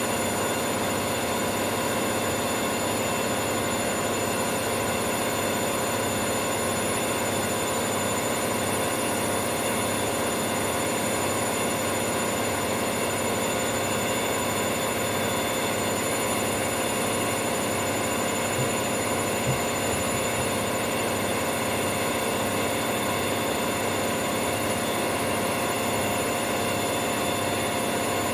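Indesit washing machine's drum on a fast spin, running at a steady speed: a constant whirring drone with high whining tones and a regular low pulse underneath. Two small clicks come about two-thirds of the way in.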